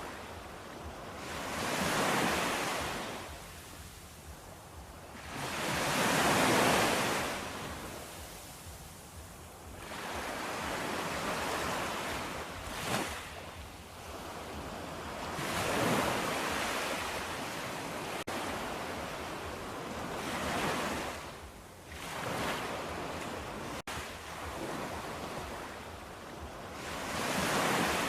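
Waves washing in, each surge swelling and falling away about every four to five seconds.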